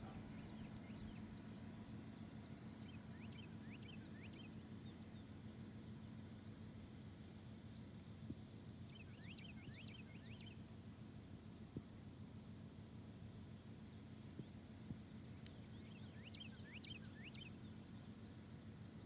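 A steady, high-pitched chorus of insects, crickets or similar, trilling without a break. Short clusters of quick bird chirps come in four times over it.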